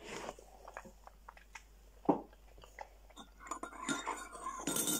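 A person chewing a mouthful of food, with small wet mouth clicks and smacks. A brief rustling noise comes near the end.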